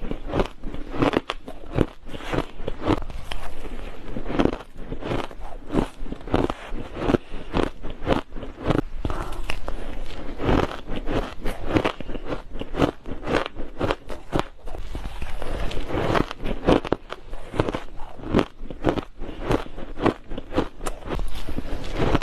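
Ice being bitten and crunched between the teeth, close to the microphone: a dense, irregular run of crisp crunches.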